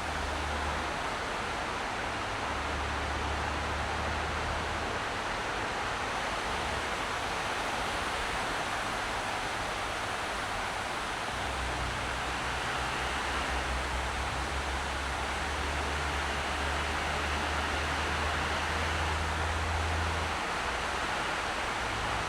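Steady road and tyre noise from a car driving, an even hiss, with a low engine drone underneath that drops out and returns several times.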